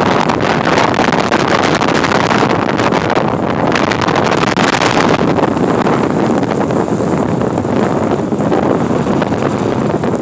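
Snowstorm wind blowing across the microphone: a loud, steady rushing noise with crackling, swelling and easing slightly.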